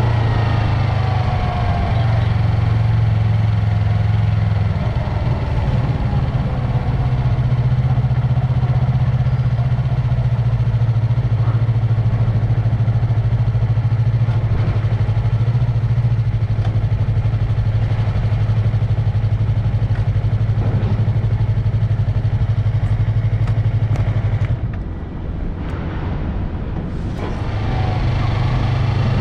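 Yamaha MT-03's parallel-twin engine and exhaust running steadily under way, a low drone. Near the end it eases off for a couple of seconds and then picks up again.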